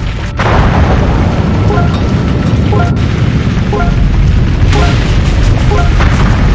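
Strong wind roaring on the microphone, a loud steady low rumble, with faint music notes sounding about once a second.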